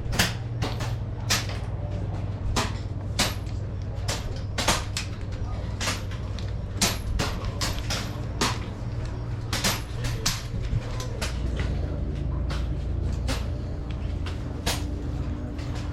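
Air rifles firing: sharp, short reports at irregular intervals, sometimes several close together, over a steady low rumble.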